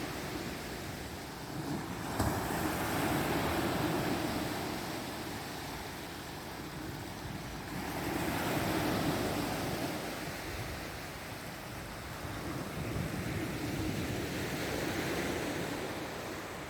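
Sea waves breaking on the shore in slow surges, about three swells of surf, roughly five or six seconds apart.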